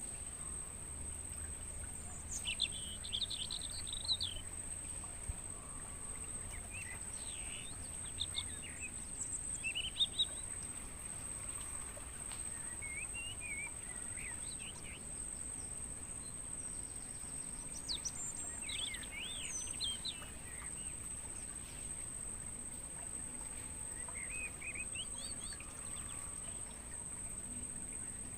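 Crickets keep up a steady, high-pitched chorus, while songbirds call over it with short chirps and twittering phrases every few seconds.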